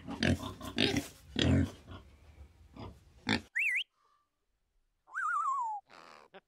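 A group of pigs grunting and oinking for about three and a half seconds. Then, after a short gap, come a parrot's whistled calls: a quick rising warble, then a longer wavering call that falls in pitch, with a few faint clicks near the end.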